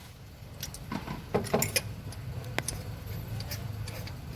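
Metal hand tools and engine parts clinking and clicking as they are handled, a string of separate sharp clicks with the loudest cluster about a second and a half in. The mechanic is taking the valve-cover parts off again to refit a folded spark-plug tube seal on the Kijang's engine.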